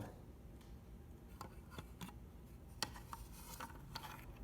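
Light scattered clicks and brief rubbing as a 3D-printed PLA stand is pushed and worked onto the upturned chassis of an RC truck, plastic knocking and sliding against the frame until it seats.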